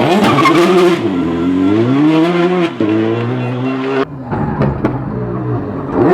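Rally car engine revving hard, its pitch rising and falling through gear changes with a brief break for a shift. About four seconds in, the sound abruptly turns quieter and duller as the engine keeps running.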